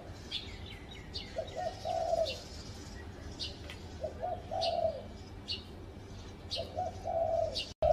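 Spotted dove cooing: three phrases about two and a half seconds apart, each two short notes followed by a longer drawn-out coo. Smaller birds chirp in the background.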